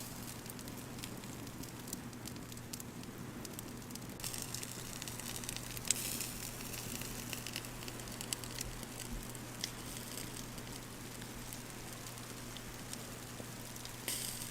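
Campfire crackling, with scattered sharp pops and a louder hiss for a few seconds about four seconds in.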